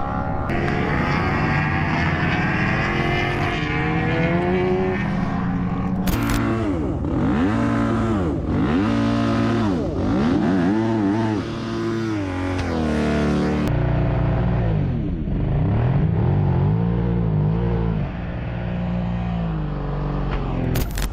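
Motorcycle engine revving, its pitch climbing and dropping over and over, with a couple of abrupt changes in the sound.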